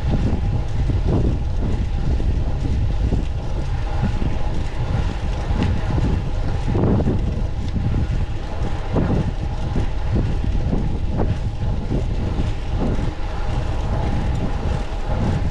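Wind buffeting the microphone of a moving fixed-gear bicycle, over steady road and tyre noise, with a faint constant hum and scattered small knocks from the ride.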